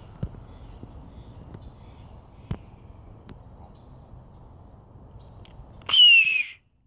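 Steady faint outdoor background noise with a few light clicks, then near the end a single loud, hoarse bird call that falls in pitch, lasting about half a second, after which the sound cuts off suddenly.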